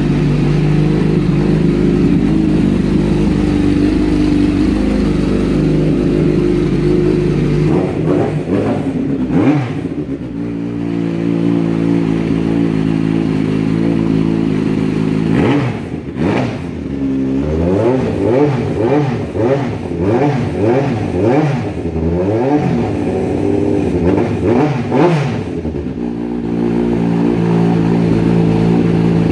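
Kawasaki Ninja motorcycle engine idling steadily, then revved, first briefly and then in a string of quick throttle blips that rise and fall several times, before it settles back to idle near the end.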